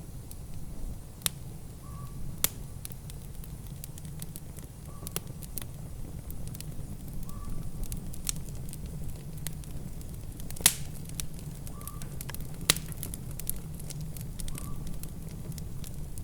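Wood fire crackling in a fireplace: a steady low rumble with irregular sharp pops and snaps, a few much louder ones, the loudest about two-thirds of the way through.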